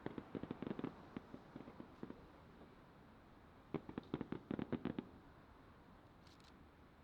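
Fireworks bursting: rapid clusters of sharp crackling pops, one at the start and another about four seconds in.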